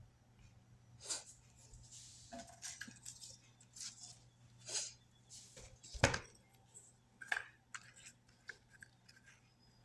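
Scattered light clicks, taps and clinks of handmade craft pieces being picked up and set down on a table, with one sharper knock about six seconds in.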